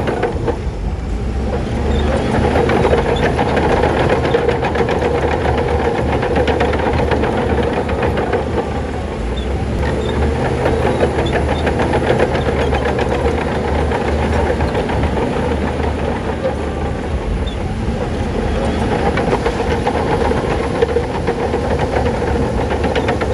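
Shantui crawler bulldozer working: diesel engine running steadily under load with the continuous clatter of its steel tracks.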